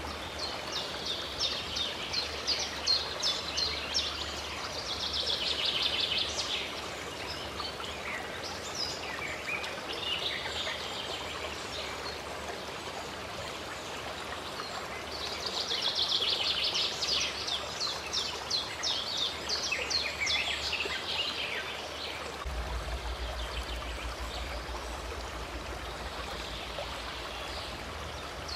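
Running water from a stream, a steady rushing, with songbirds singing over it in rapid chirping bursts that come and go, busiest in two spells.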